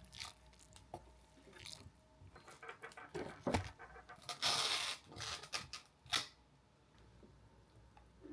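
Light knocks and clicks of objects being handled, with a short noisy burst about four and a half seconds in and a sharp click near the end.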